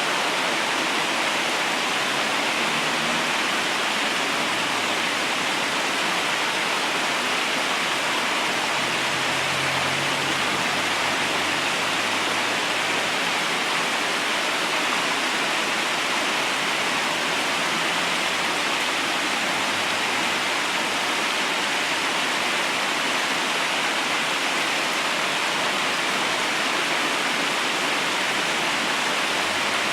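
Flowing river water rushing steadily, a constant even hiss with no breaks.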